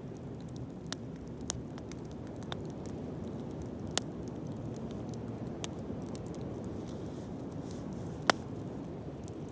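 Bonfire burning with a steady low rush and scattered sharp crackles and pops, the loudest pop near the end.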